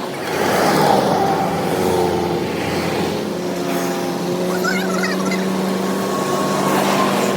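A vehicle engine running steadily with an even hum.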